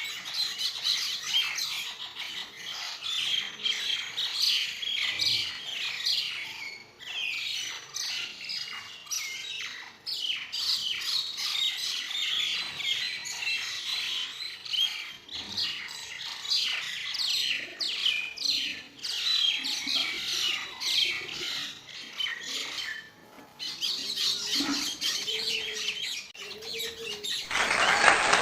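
Birds squawking and chirping in quick, dense bursts of short calls, with a few brief pauses. Near the end a steady hiss takes over.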